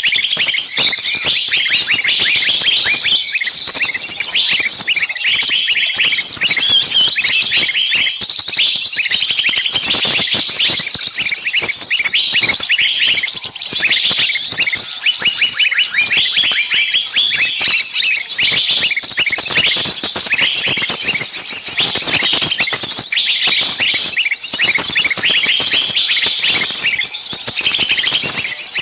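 Dense chorus of many small songbirds giving rapid, shrill, overlapping chirps and calls without a break, a noisy screaming commotion as if the birds were distressed. It is a lure recording used to draw small birds such as bulbuls and sunbirds in for trapping.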